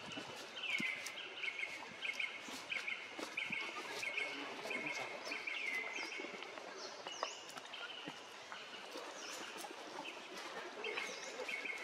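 Forest ambience with a bird calling over and over, a short high call repeated every half second or so, and occasional higher falling chirps.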